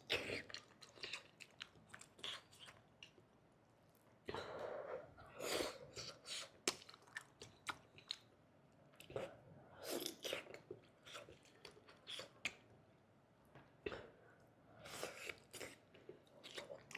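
Close-miked eating: a person chewing with many short wet mouth clicks, and a few longer, louder rushes of noise about four, ten and fifteen seconds in.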